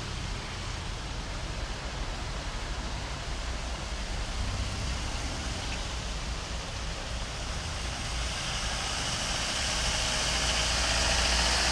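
Heavy rain and floodwater rushing along a street, a steady hiss over a low rumble, growing louder over the last few seconds.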